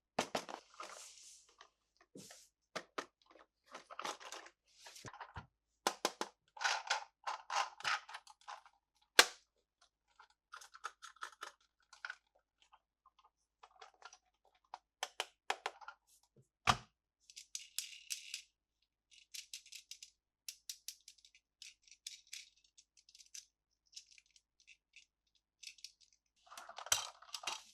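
Plastic toy parts and packaging handled up close: scattered clicks, taps and crinkling, with a few sharp snaps, the loudest about nine seconds in.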